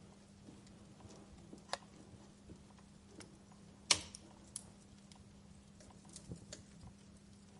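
Wood fire crackling in a fireplace: scattered soft clicks and pops, with one sharp loud pop about four seconds in and a smaller one a little before the two-second mark, over a faint steady low hum.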